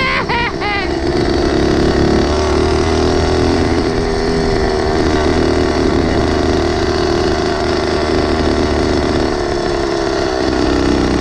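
Small engine of a motorized 20-inch mini bike running steadily, with a slight shift in its note about two-thirds of the way through.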